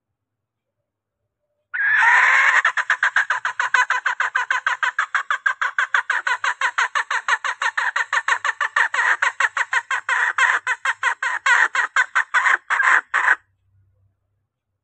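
Recorded junglefowl hen calling in a rapid run of clucks, about five a second, starting about two seconds in and stopping abruptly after some eleven seconds. This is a lure call used to draw in cock junglefowl.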